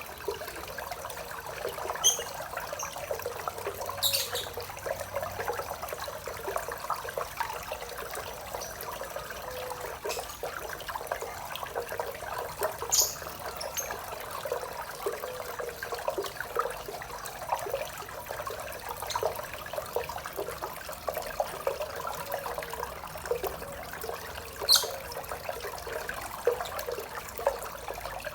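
Small waterfall splashing and trickling steadily into a koi pond, a dense patter of falling water. A few short, high-pitched sounds stand out now and then.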